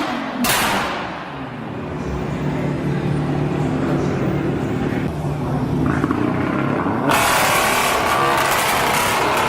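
Car engine running with a steady drone after a sharp crack at the start, then turning much louder and harsher about seven seconds in.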